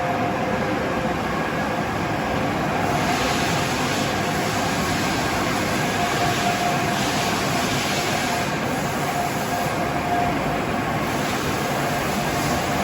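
Steady noise of CNC machine tools running in a metalworking shop, with faint steady whines over it and a hiss that swells in the middle.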